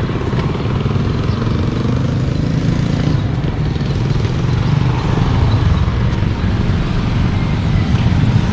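Motorbike running steadily while riding along the road.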